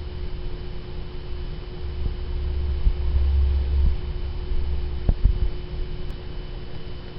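Steady electrical hum over a low rumble, with a single sharp click about five seconds in.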